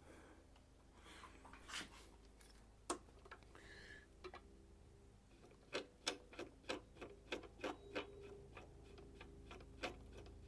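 Faint light clicks, about three a second through the second half, over quiet room tone: small metal parts of a knife-sharpening jig and tool rest being handled and adjusted while the angle is set.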